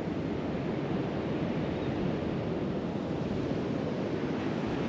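Steady wash of surf on a sandy beach, mixed with wind.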